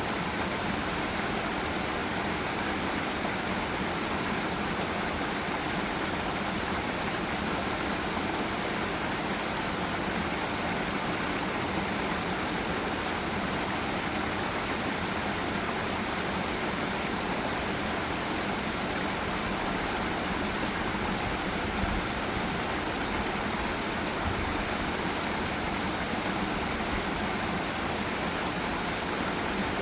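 Forest river water rushing over a waterfall: a steady, even hiss of falling and flowing water, unchanging throughout.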